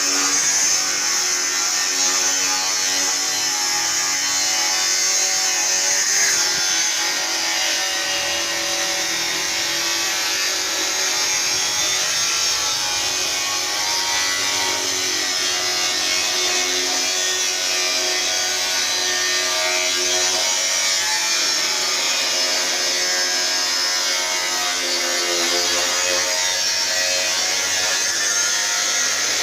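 Electric angle grinder with a cutting disc running continuously through steel plate: a steady high whine whose pitch wavers as the load on the disc changes.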